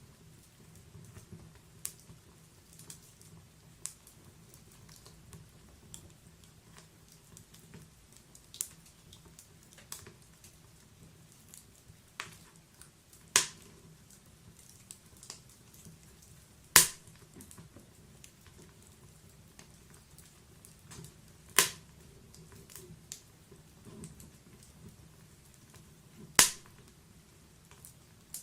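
Wood logs burning in a fireplace, crackling: scattered small snaps over a faint low hiss. From about halfway through come four loud, sharp pops a few seconds apart.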